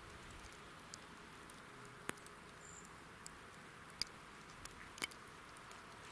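Faint steady background hiss broken by a few sharp, irregularly spaced clicks.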